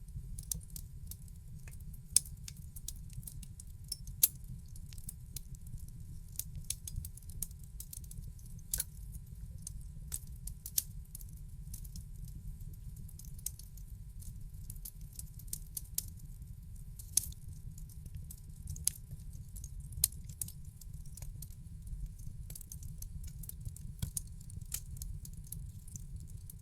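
Wood fire in a fireplace crackling: many small snaps and a handful of louder pops over a steady low rumble of the burning fire.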